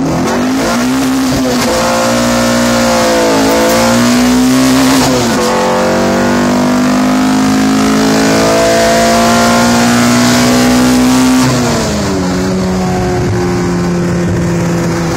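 Honda hatchback's swapped H22 2.2-litre DOHC VTEC four-cylinder at full throttle, heard from inside the cabin: the engine note climbs steadily, falls sharply at an upshift about five seconds in, climbs again, and falls at a second upshift near twelve seconds, then holds a steadier, slightly falling pitch.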